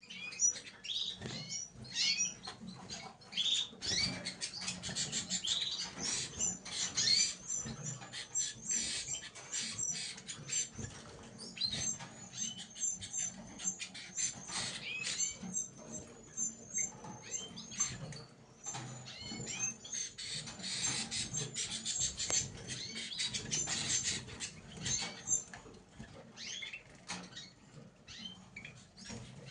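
Canaries chirping and twittering, with runs of fast, high trilled notes and many scattered clicks in between.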